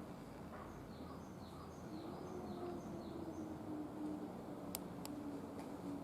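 Steady outdoor background noise with a small bird giving a run of short, falling chirps for a couple of seconds, then two sharp clicks near the end.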